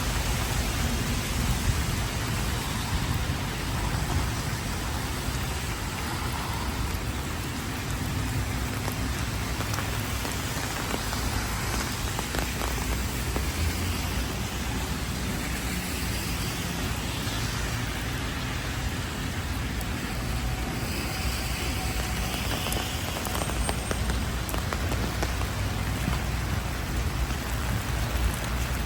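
Heavy rain falling steadily and evenly, with a low rumble underneath.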